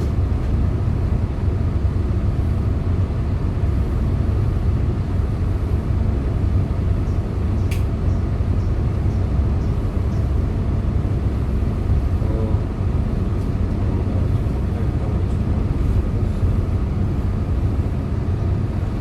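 Hyundai Green City CNG city bus engine running steadily with a low, even rumble, heard from aboard the bus. A single sharp click about eight seconds in.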